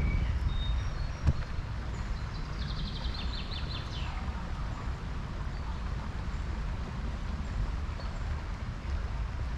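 A songbird sings one fast trill of repeated high notes ending in a quick downward flourish, between about two and a half and four seconds in, over a steady low outdoor rumble. A single sharp click comes about a second in.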